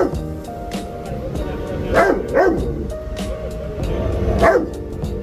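A dog barking in single deep barks: once at the start, twice in quick succession about two seconds in, and once more near the end, over background music.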